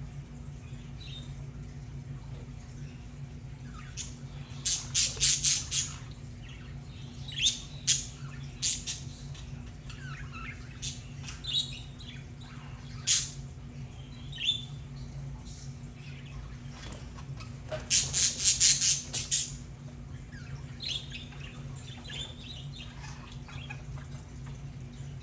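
Budgerigars chirping and squawking in short scattered calls, with two louder bouts of rapid, scratchy chatter about five seconds in and again about eighteen seconds in.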